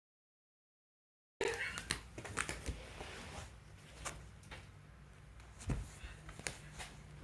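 Silence for about a second and a half, then quiet room sound with a low steady hum and scattered light clicks and taps.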